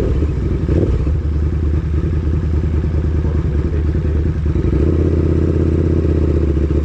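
KTM 1290 Super Duke's V-twin engine, its revs dropping right at the start and then running low with a lumpy, uneven pulse.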